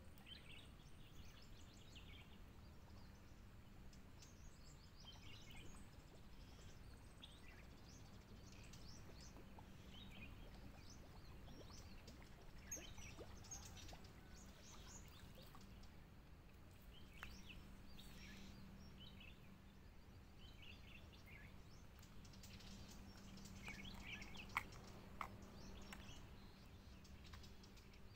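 Quiet riverbank background with scattered faint bird chirps and calls throughout, and a couple of sharp clicks near the end.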